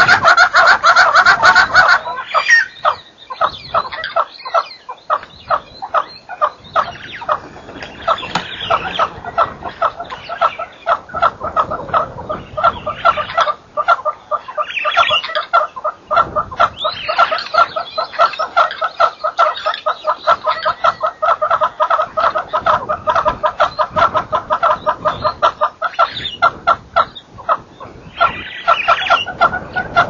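Birds calling in a continuous chorus of rapid, repeated notes, with louder bursts here and there.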